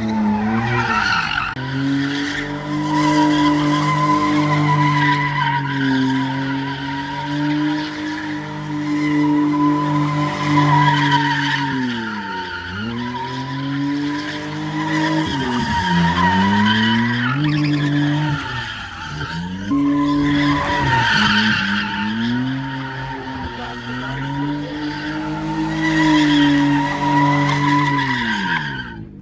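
A car's engine held at high revs with its tires squealing under wheelspin, as in a burnout. The revs drop away and climb again several times, while the squeal holds steady.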